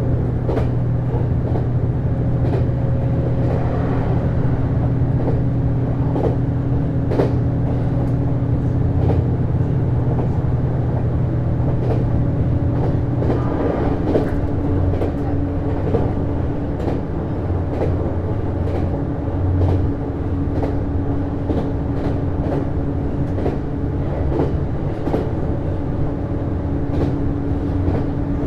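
Interior running sound of a JR East HB-E210 series diesel-electric hybrid train at speed: a steady hum from its drive system with wheels clicking over rail joints. About halfway through, one low part of the hum drops out and the tone of the drive changes.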